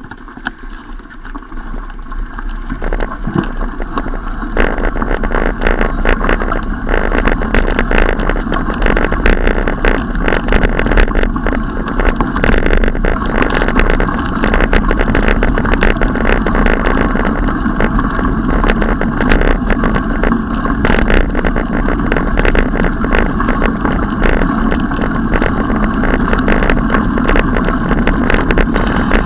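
Steady riding noise from a moving bicycle, tyre and road rumble with constant small rattles and clicks, building up over the first few seconds and then holding.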